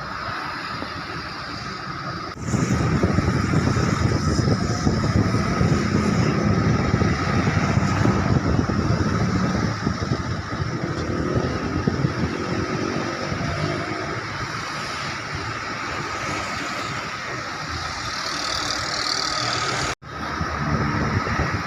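Road traffic: cars and other motor vehicles passing on a busy road in a steady rumble, louder after about two seconds, with an engine pitch falling as one goes by midway. The sound cuts out for an instant near the end.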